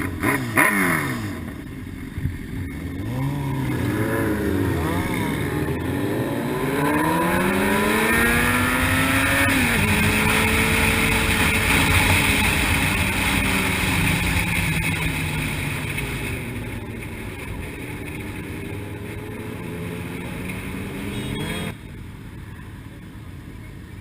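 A Honda CBR600RR sportbike's inline-four engine accelerating hard, its pitch rising in several sweeps as it runs up through the gears. It then holds a steady high note that slowly falls away as the throttle eases. Near the end the sound drops off suddenly.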